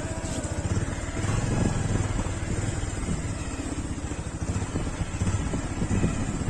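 Motorcycle running on the move, a steady low rumble with rapid flutter.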